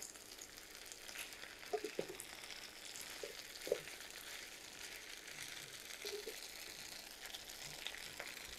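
Faint sizzling of boiled potatoes frying in oil with onions and green chilies in a karahi, with a few soft knocks of a wooden spatula stirring against the pan.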